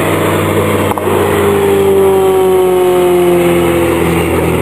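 Piston engines of a light-aircraft formation, a Piper Pawnee glider tug and a Twister, flying past. The engine note falls steadily in pitch as they go by.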